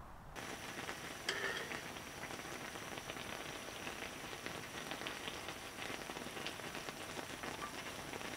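Bulgogi with shredded green onion sizzling and crackling steadily in a hot pan over a camping gas burner, with one light clink of metal tongs a little over a second in.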